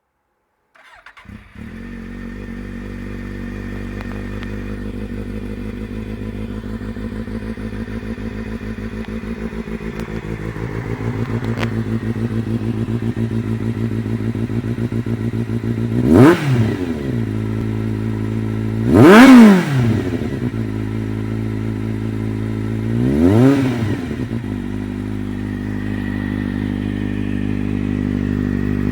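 Kawasaki motorcycle with an SC-Project aftermarket exhaust starting up about a second in and idling steadily. The idle settles a little lower around ten seconds in. The throttle is then blipped three times in short, loud revs, the second the loudest, each falling straight back to idle.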